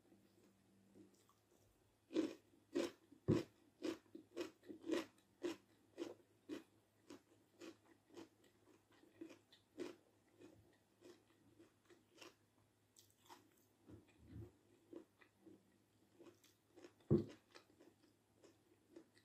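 A person chewing a mouthful of food close to the microphone. Regular chewing clicks, about two a second, start about two seconds in. They are loudest at first and then grow softer, with a few low thumps among them.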